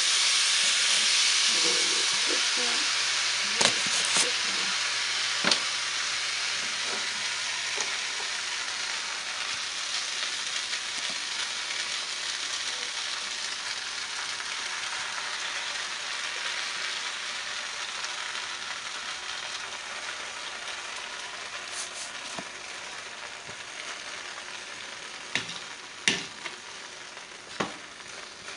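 Grilled cheese sandwich frying in a frying pan, a steady sizzle that starts loud and slowly dies down. There are a few light knocks from a spatula, the sharpest near the end.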